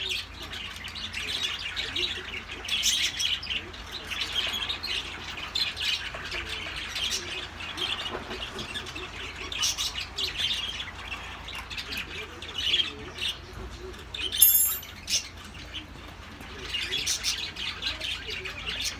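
Birds chirping and squawking in short, repeated bursts, with one sharper high call about two-thirds of the way through.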